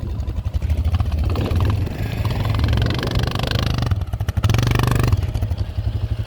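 ATV engine running with a steady low pulsing note, revving up harder for about a second near the end.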